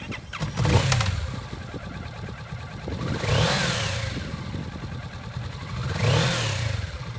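Kawasaki Vulcan S 650 parallel-twin engine running, blipped just under a second in, then revved up and back down twice, about three and six seconds in.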